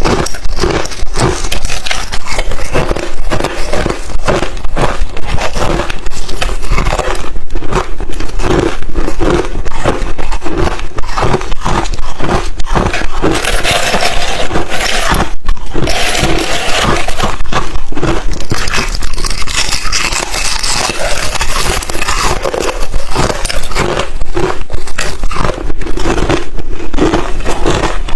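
Close-up crunching of thin, refrozen crushed ice chips being bitten and chewed: a loud, dense run of crunches with a short break about halfway through.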